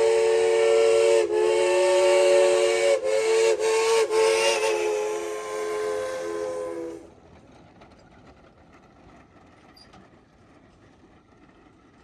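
Geared steam locomotive's chime whistle sounding one long multi-tone blast, briefly dipped a few times in the first four seconds, then cut off sharply about seven seconds in.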